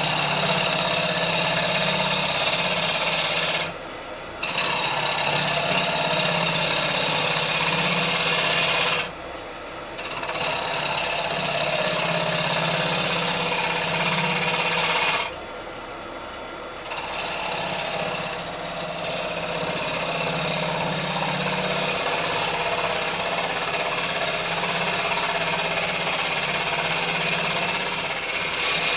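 Bowl gouge cutting a spinning rowan-wood bowl on a wood lathe: a steady scraping hiss of the cut that drops out briefly three times as the tool comes off the wood.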